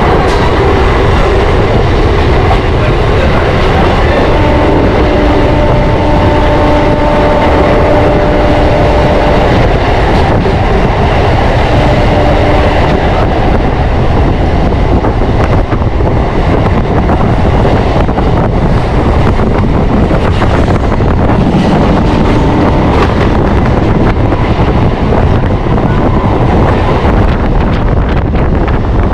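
Suburban electric local train running at speed, heard from its open doorway: a steady, loud rumble and rattle of wheels on track. A steady whine rises above it from about four to ten seconds in.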